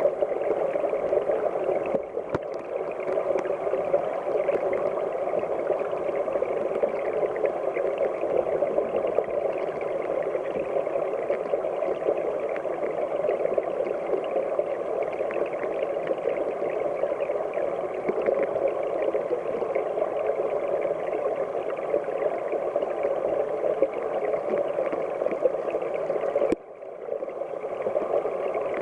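Steady rushing of a headwater mountain stream, muffled and dull with little hiss. It drops away for a moment about two seconds in, and again for about half a second near the end.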